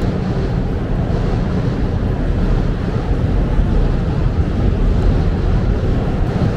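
Wind buffeting the microphone of a camera on a moving bicycle: a steady, loud low rumble, with city traffic noise mixed in.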